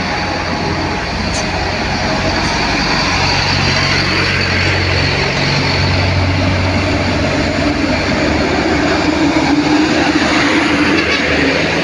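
Heavy truck engine running under load, with road and tyre noise. The low engine note grows stronger for a few seconds in the middle, then a higher tone creeps up in pitch near the end.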